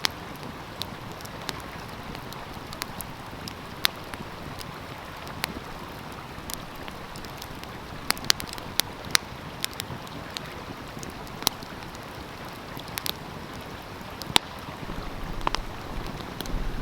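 Wood fire crackling, with sharp irregular pops, over the steady rush of a flowing stream. A low rumble comes in near the end.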